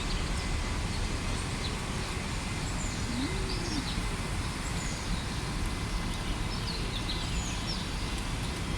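Steady outdoor park background noise with scattered faint, high bird chirps throughout, and one short low call about three seconds in.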